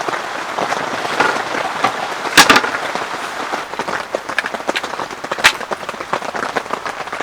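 Heavy rain falling, a dense pattering of drops with a few louder, sharp drip strikes about two and a half seconds in and again near five and a half seconds.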